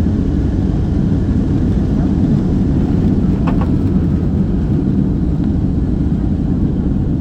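Boeing 777 jet engines heard from inside the passenger cabin: a loud, steady low rumble of an airliner on its takeoff run or climb-out, with a faint brief tick about three and a half seconds in.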